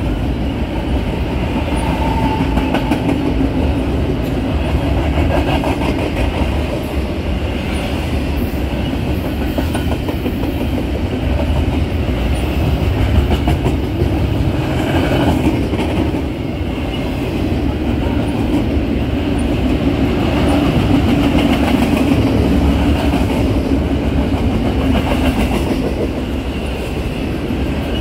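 Double-stack container freight train rolling past: a steady rumble of steel wheels on rail, with a rapid run of clicks as the wheels cross rail joints.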